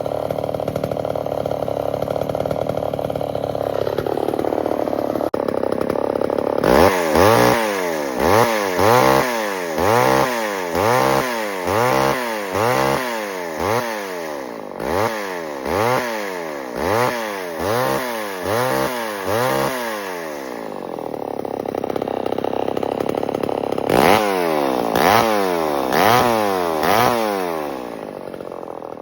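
1978 Homelite XL12 two-stroke chainsaw engine running, then revved up and down about once a second in a long series of throttle blips. It settles briefly, is blipped several more times, and drops back near the end.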